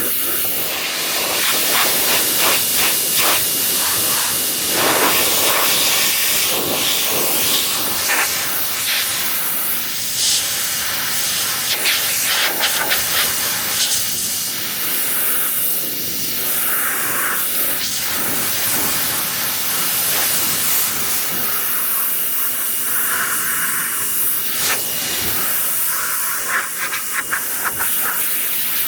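Pressure washer jet spraying water onto a car's bodywork: a steady, loud hiss that shifts in pitch and texture as the spray moves, with a thin steady whine beneath it.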